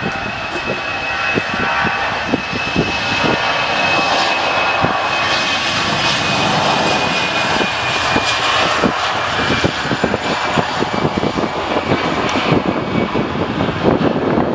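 Airbus A319 twin-jet at takeoff power on departure: a loud, steady jet-engine noise with a high fan whine that fades about halfway through. The highest sounds fall away near the end as the aircraft draws off.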